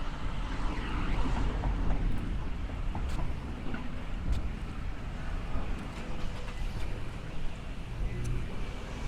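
Wind rumbling on the microphone over a steady wash of outdoor noise, with a few faint clicks.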